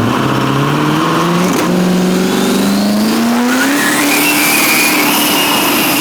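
A drag-racing truck's engine accelerating hard through the gears. Its note climbs, drops at a shift about a second and a half in, then climbs again, and a high whine rises in alongside from about three and a half seconds in and holds.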